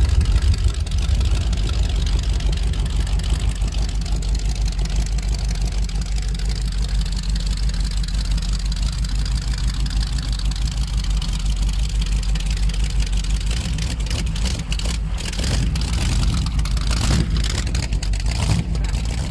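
A T-bucket hot rod's V8 with open headers running at low revs as it rolls slowly past, a steady pulsing low rumble.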